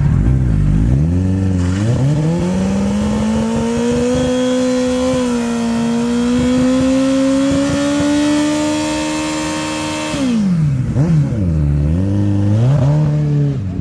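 Sport motorcycle engine revved hard: the pitch climbs over the first two seconds and is held high, creeping slowly upward, for about eight seconds, then drops suddenly. It is followed by two quick throttle blips, each rising and falling.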